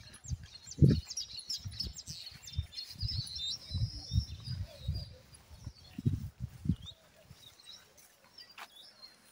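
Small birds chirping and twittering in quick, busy runs over irregular low thumps, which stop about seven seconds in.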